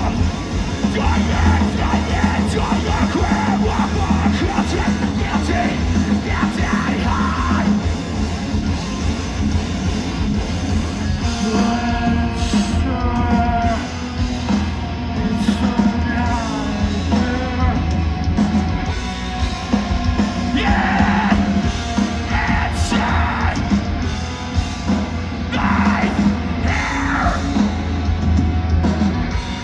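Metalcore band playing live: loud, heavily distorted guitars, bass and drums, with screamed vocals.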